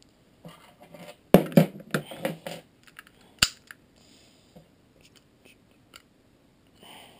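Small parts of a Hi-Capa airsoft pistol clicking and rattling as it is handled during disassembly: a quick run of sharp clicks about a second and a half in, one sharp click near the middle, then a few light ticks.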